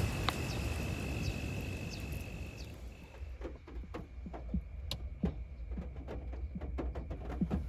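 Rain falling: a steady patter that gives way after about three seconds to scattered separate drips.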